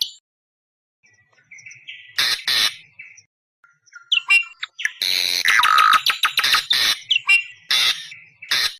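Awar-awar bird calls: harsh, squawking calls in separate bursts. A short call sounds about two seconds in, then from about five seconds in comes a long, loud run of rapid harsh calls.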